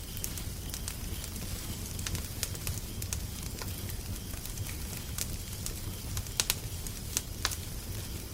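Wood fire crackling: irregular sharp pops and snaps over a steady low rumble, with a quick pair of louder pops about six and a half seconds in.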